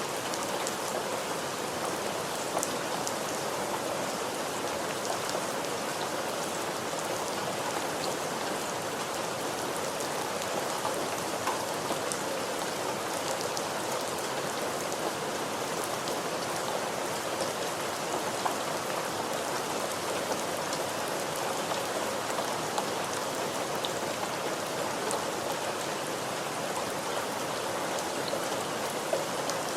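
Steady rainfall: a dense, even hiss of rain with scattered individual drops ticking on a surface.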